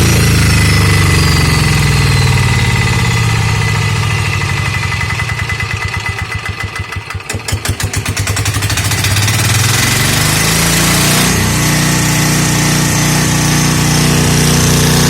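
Petter AC1 single-cylinder air-cooled diesel engine slowing from running speed to a slow idle, where its separate firing beats can be heard about halfway through, then picking up speed again and running steadily.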